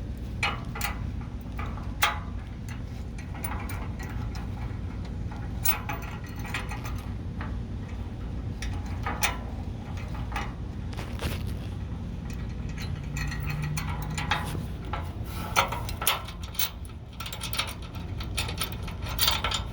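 Irregular metal clicks and clinks of bolts, washers and a wrench as running-board mounting brackets are fastened to a pickup's frame, over a steady low rumble.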